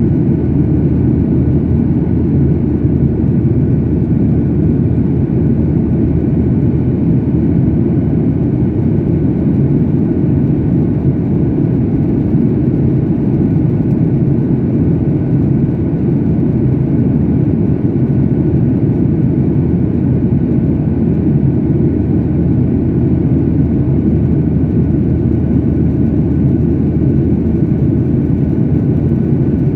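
Jet airliner cabin noise in flight: a loud, steady, deep rush of engines and airflow with a faint steady whine above it, unchanging throughout.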